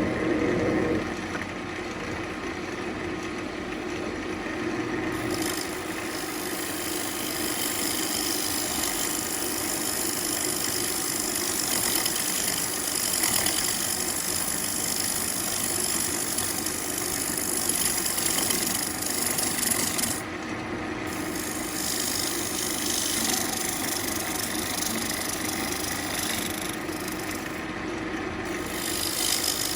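Central Machinery wood lathe spinning an ambrosia maple bowl blank while an insert-tipped turning tool cuts into it: a steady scraping hiss over the lathe's hum. The cut breaks off briefly twice, about 20 and 28 seconds in.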